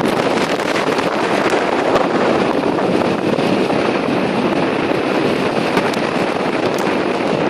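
Strong mountain wind blowing across the microphone: a loud, steady rush of wind noise.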